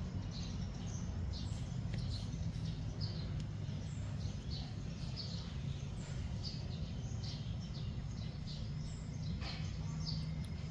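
Small birds chirping in short, high notes, several a second and unevenly spaced, over a steady low rumble.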